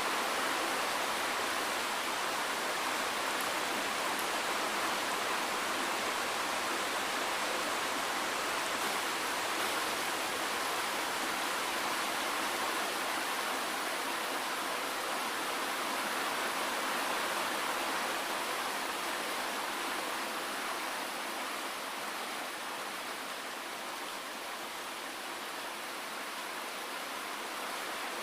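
Steady rain falling, an even hiss without single drops standing out.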